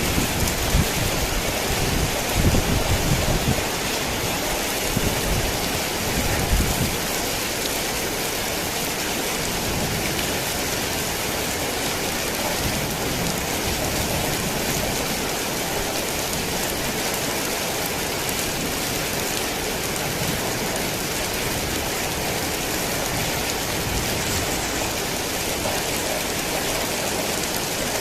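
Heavy rain falling steadily as a dense, even hiss, with a low rumble of thunder during the first several seconds that dies away.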